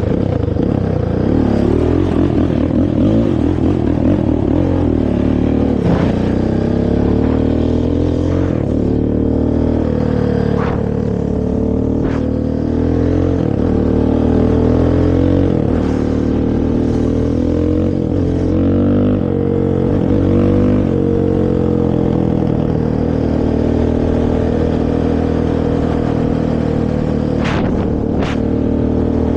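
Honda TRX450R quad's carbureted single-cylinder four-stroke engine on its stock exhaust, revving up and easing off again and again while riding. A few sharp clicks stand out over it, two of them close together near the end.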